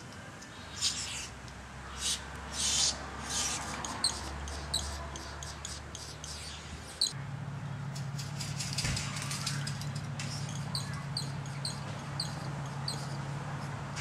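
A bird chirping repeatedly in short, high notes, roughly two a second, over a low steady hum. There are a few short hissing rasps in the first three seconds.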